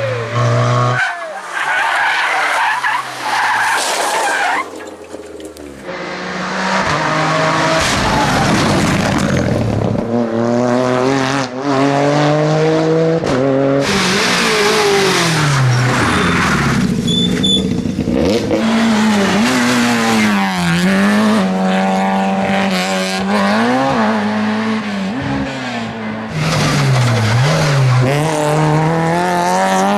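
Rally cars at full stage pace, passing one after another. The engines rev high and drop back again and again through gear changes and braking, their pitch rising and falling repeatedly.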